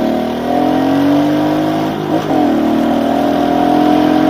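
Pit bike's small single-cylinder four-stroke engine pulling under throttle, its pitch rising, dipping briefly about two seconds in as it shifts, then climbing again.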